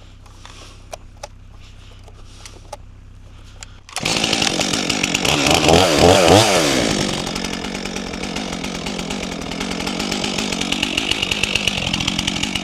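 A low steady hum with faint ticks. About four seconds in, a Stihl MS400C chainsaw comes in loud, is revved up and down several times in quick succession, then runs steadily.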